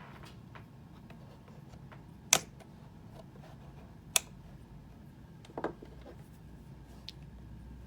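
Three separate sharp clicks or knocks, the first, about two seconds in, the loudest, over a faint steady low hum.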